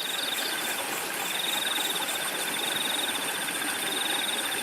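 Cricket chirping in a fast pulsed trill over the steady rush of flowing river water. The trill breaks off briefly about a second in, then resumes.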